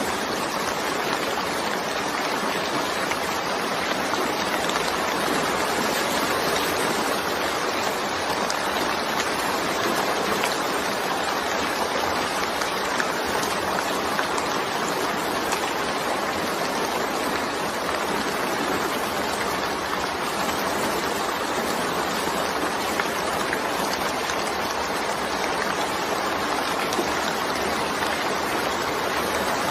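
Steady, even rain: a dense hiss of rainfall without single drops or thunder standing out.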